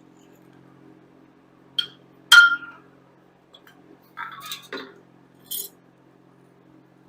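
Metal hand tools clinking together: a light clink just before two seconds in, then a louder, ringing clink, followed by shorter rattles and handling noises.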